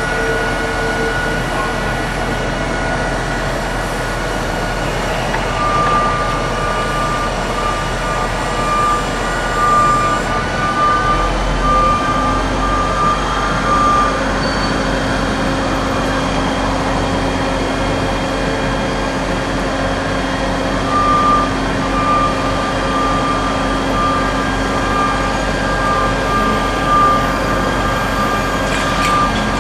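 Heavy construction machinery running steadily, with a backup-style warning alarm beeping in an even series for several seconds, stopping, then starting again near the second half.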